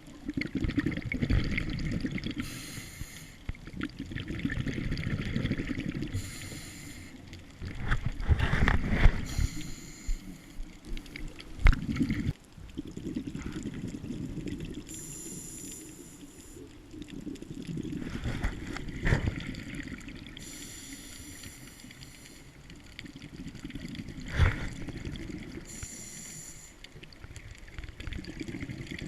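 Scuba diver breathing through a regulator underwater: about six breaths, each a short high hiss from the regulator alternating with a low rumbling burst of exhaled bubbles. A few sharp knocks stand out above the breathing.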